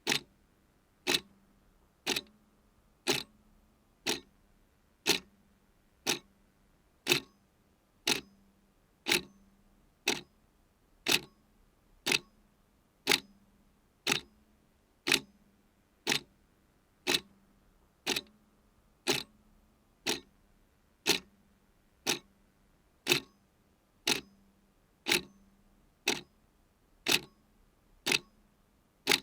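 Clock ticking steadily, about one tick a second, each tick sharp with a brief low ring after it.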